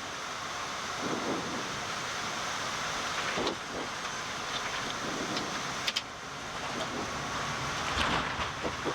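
Steady rush of airflow and engine noise on a Boeing 787 flight deck during the landing flare, slowly getting louder, with a few brief knocks.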